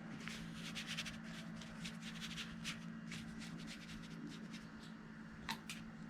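Paintbrush strokes on paper: a quick run of short scratchy rubbing and dabbing strokes, over a steady low hum, with two sharper ticks near the end.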